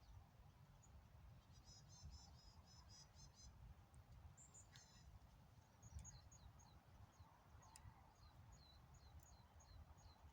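Faint small-bird calls over a low background rumble. A quick run of chirps comes about two seconds in, then a series of short falling notes, roughly two a second, through the second half.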